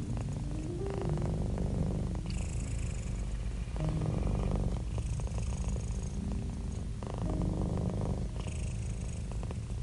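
Domestic cat purring close up, a low steady purr that swells and eases with each breath about every three seconds.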